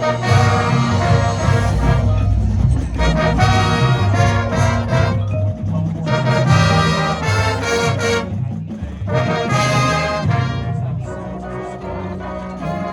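High school marching band playing its field show: full brass with heavy low brass, coming in loud right at the start and swelling through several loud phrases, a little softer near the end.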